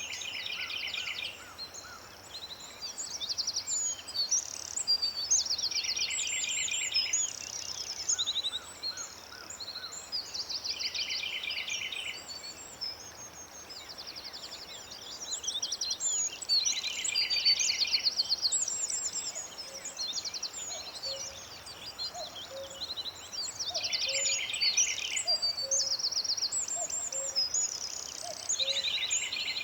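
Songbirds singing: bright, high phrases of rapid trills and chirps that come back every few seconds. In the second half a soft, lower call repeats about once a second beneath them.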